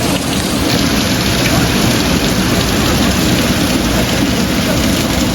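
Heavy rain and strong wind of a severe thunderstorm, a loud, steady rushing hiss with no let-up.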